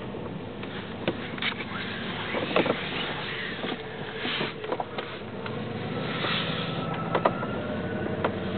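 2002 Dodge Durango's engine running cold, a steady hum with irregular clicks and knocks over it. This is the odd noise it makes only while cold, which stops once the engine warms up.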